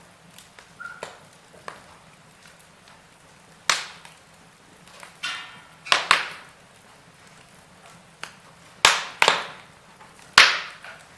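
Wood fire crackling over a faint hiss, with scattered small ticks and several sharp, loud pops of burning logs a second or two apart, the strongest near the end.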